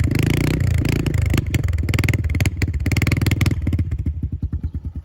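Yamaha TTR 110 four-stroke single running loud through an aftermarket FMF Power Core 4 exhaust, held at raised revs with the throttle blipped, then dropping back to a slow idle about three and a half seconds in. It is pretty loud.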